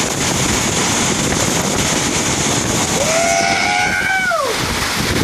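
Heavy rain pouring down, a steady loud hiss. About three seconds in, a single held tone sounds for about a second and a half, its pitch dropping away at the end.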